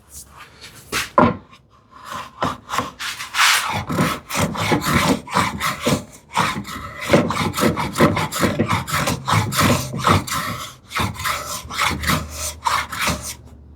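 Hand plane taking thin shavings from the end of a wooden drawer back: a long run of quick, short strokes, several a second, after a couple of knocks in the first two seconds.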